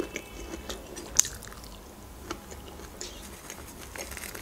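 Soft chewing and mouth sounds of someone eating cake, with a few short clicks as fingers pick crumbs off a plate.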